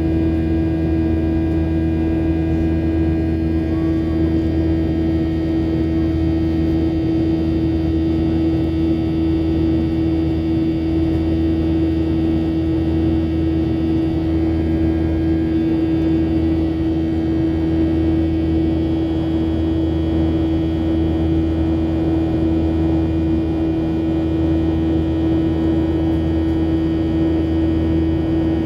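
Airliner jet engines heard from inside the passenger cabin, a steady drone with a strong humming tone over a low rumble, at climb power after takeoff.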